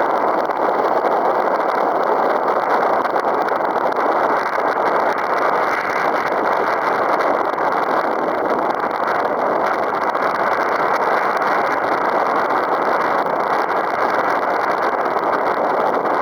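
Strong wind blowing over the microphone: a loud, steady rushing noise.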